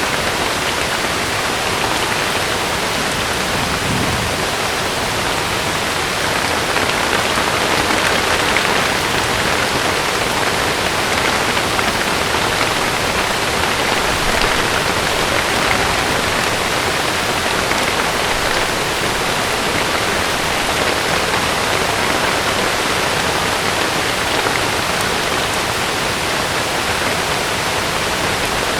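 Heavy rain falling steadily, an even downpour with no clear drops, thunder or other events standing out.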